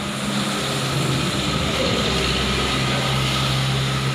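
Steady rain falling, an even hiss, with a low steady hum underneath that grows stronger about halfway through.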